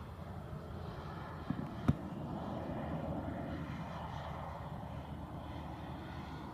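Airplane engine running steadily, swelling a little in the middle, with one sharp click about two seconds in.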